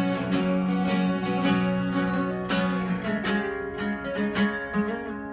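Acoustic guitar strumming chords in an instrumental break of a country song, with no singing. It gets quieter near the end.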